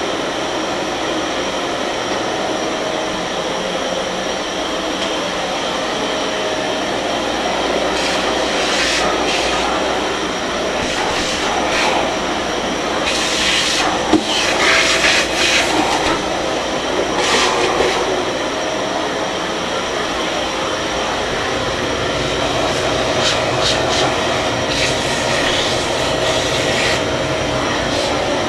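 Kärcher MV6 P Premium wet-and-dry vacuum cleaner running steadily, with louder hissing rushes now and then as the nozzle sucks up dirt.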